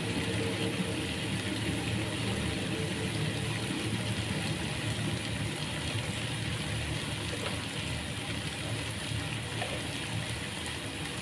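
Water spinach stir-frying in oil and oyster sauce, giving a steady sizzle.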